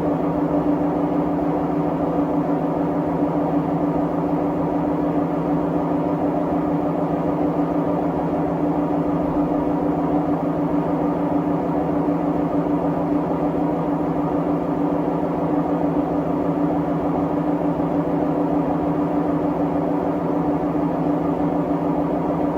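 Siemens WM14T490 washing machine spinning its drum at a constant speed, giving a steady, loud drone with several held tones. The noise comes from failed drum bearings.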